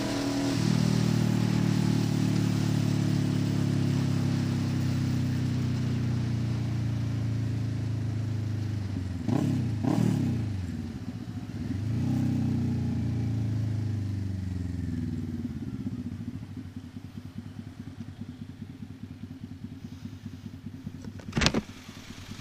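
Kawasaki Ninja 650's parallel-twin engine through an SC Project exhaust, revs sinking slowly as the bike rolls off. There are two quick throttle blips about nine to ten seconds in, then the revs pick up again and fall away. It settles into a low, even pulsing near idle, with a sharp crack near the end.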